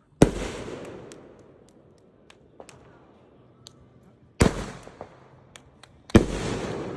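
Fireworks going off: a loud bang right at the start, another about four seconds in and a third near the end, each trailing off over about a second, with scattered small sharp cracks in between.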